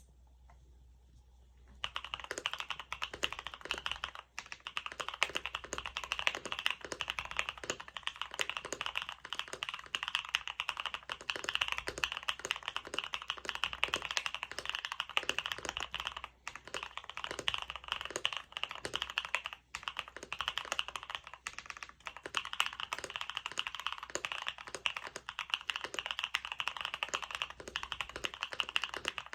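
Steady, fast typing on a Bakeneko60 mechanical keyboard with BSUN First Love switches, an FR4 plate and PBT keycaps, starting about two seconds in, with a few brief pauses.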